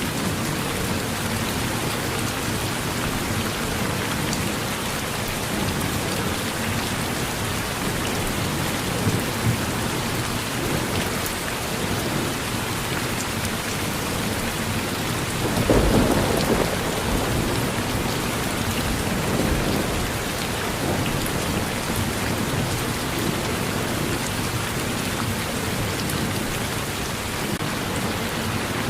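Steady rain falling on a porch, with a low rumble of thunder swelling up about halfway through.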